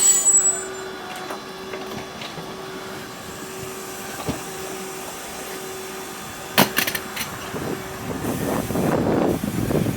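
A train's high wheel squeal dies away right at the start, leaving a quieter stretch with a faint steady hum and one sharp click. Near the end a louder rumbling noise builds up.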